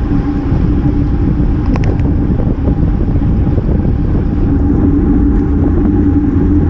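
Wind and road noise on the microphone of a GoPro riding on a road bicycle: a steady rush and rumble with a constant hum underneath.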